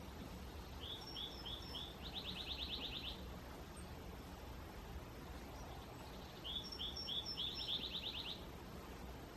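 A songbird sings twice, each song four quick separate notes followed by a fast trill, over a steady low background rumble.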